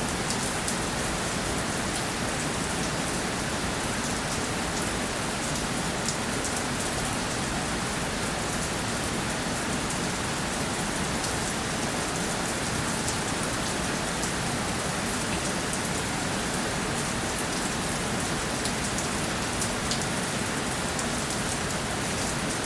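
Steady rainfall, with the patter of individual drops heard as a dense scatter of small ticks over an even hiss.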